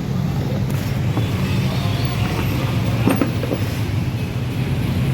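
Steady low engine hum in the background, with a few faint clicks.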